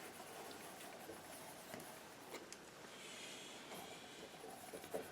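Faint scraping and a few light taps of a painting knife working paint on a canvas.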